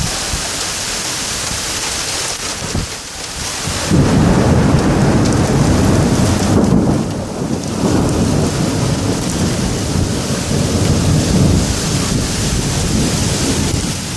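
Heavy rain falling steadily. About four seconds in, a loud, deep rumble of thunder sets in and rolls on for about ten seconds, swelling and easing.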